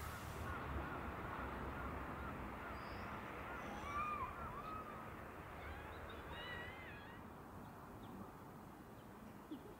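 Wild birds calling in woodland: many short, wavering chirps and calls, loudest about four seconds in and busy again around six to seven seconds, over a steady low background hum of the outdoors.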